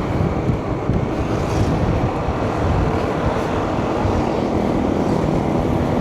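Steady wind rushing over the microphone while riding along a road, with a constant vehicle running noise underneath.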